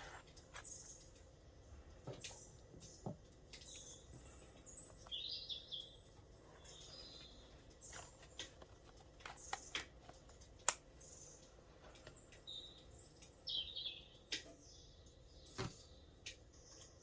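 Songbirds chirping in short, scattered calls, with frequent sharp clicks and ticks.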